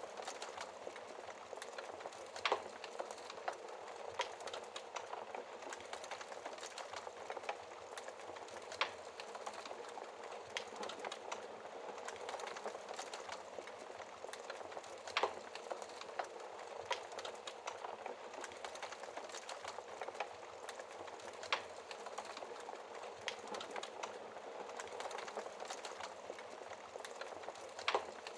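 Wood fire crackling steadily over a soft hiss, with a louder sharp pop about every six seconds.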